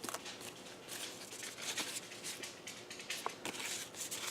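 Faint rustling and light taps of paper craft pieces being handled, with a few small clicks.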